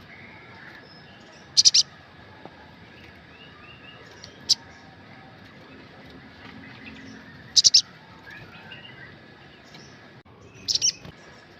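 Olive-backed sunbird calling: loud, sharp, high chips, mostly in quick triplets about every three seconds with a single chip between, and softer twittering notes in the gaps. This is a lure call meant to set other sunbirds singing.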